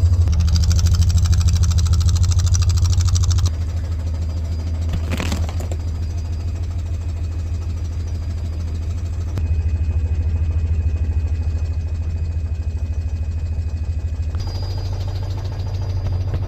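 Citroën 2CV's air-cooled flat-twin engine running at idle after a cold start at about 1 °C, with a steady low drone that drops in level about three and a half seconds in and shifts slightly twice later. A brief sharp noise about five seconds in.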